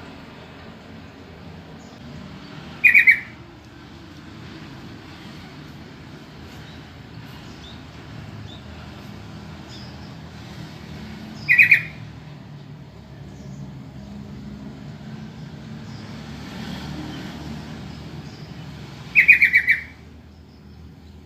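Sooty-headed bulbul (trucukan) calling three times, several seconds apart, each call a short burst of quick notes, over a steady low background noise.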